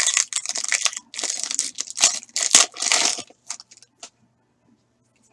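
A foil trading-card pack wrapper being torn open and crinkled: a run of rustling rips for about three seconds, then a few light clicks as the handling stops.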